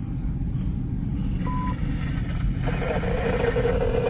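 Steady low rumble of wind and a running engine, with one short electronic beep about a second and a half in. Just before three seconds a steady hum with a hiss joins in.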